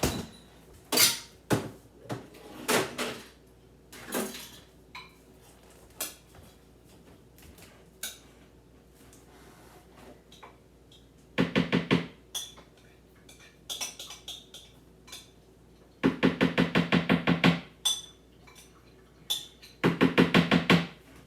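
Kitchen dishes and utensils being handled while leftovers are emptied from a food container: scattered knocks and clinks, then three runs of quick, rapidly repeated scraping or rattling strokes, the longest about a second and a half.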